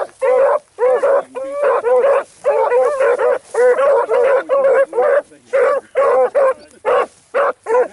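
A pack of hunting hounds giving tongue on a trail: a quick, steady run of short, ringing barks, several dogs overlapping.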